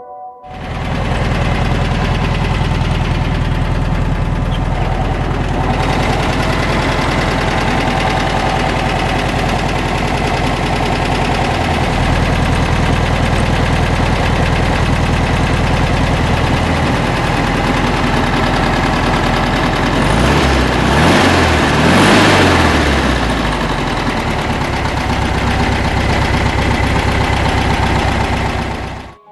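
1965 Volkswagen Beetle's air-cooled flat-four engine idling steadily, then revved up and back down once about twenty seconds in.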